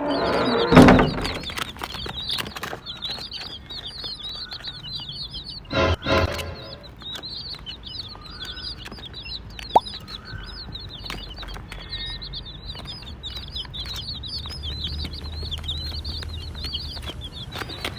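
A group of baby chicks peeping continuously in quick high chirps, with loud bursts of flapping and scuffling at the start and again about six seconds in.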